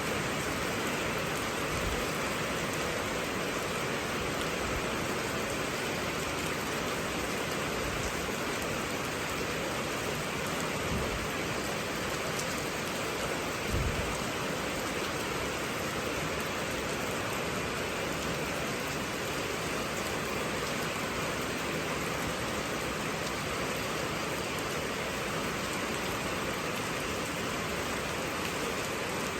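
Heavy rain falling steadily, an even hiss of rain on surfaces, with one brief low thud about halfway through.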